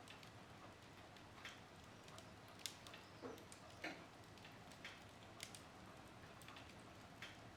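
Wood fire in a fireplace crackling quietly: irregular sharp pops and snaps, roughly one or two a second, over a faint soft hiss, the loudest snaps a little under three seconds and about four seconds in.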